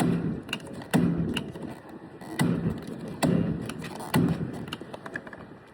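Gas pump nozzle squeezed in five short bursts to top off the tank. Each squeeze starts with a sharp click and is followed by a brief low hum of fuel flow that fades quickly.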